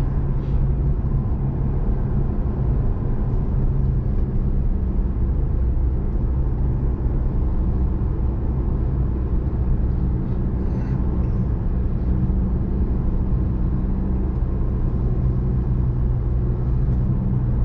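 Car cruising at steady speed, heard from inside the cabin: a steady low engine drone with tyre and road noise.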